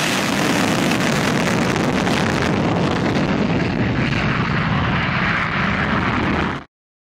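Loud, steady engine noise from an aircraft in flight at an air show, cut off abruptly near the end.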